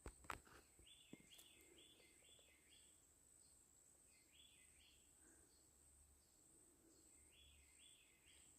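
Faint evening woodland ambience: short chirps repeated in quick runs of three to five, with a steady thin high hum behind them. A couple of sharp clicks just after the start are the loudest sounds.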